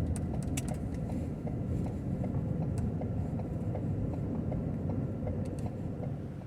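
Ford Transit camper van driving slowly: a steady low engine and road rumble with scattered small clicks from the tyres, dropping away near the end.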